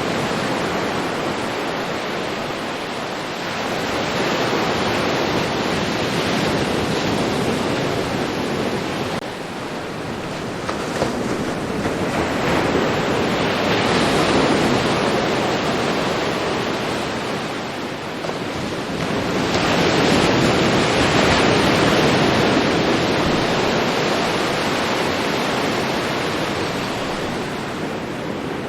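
Ocean surf washing onto a beach, a steady rush of water that swells and eases as waves come in every several seconds.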